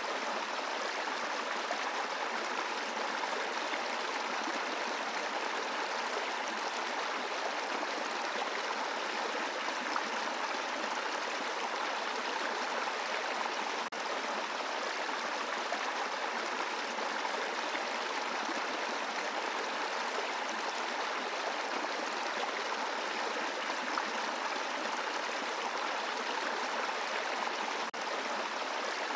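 Brook flowing over rocks: a steady, even rush of running water.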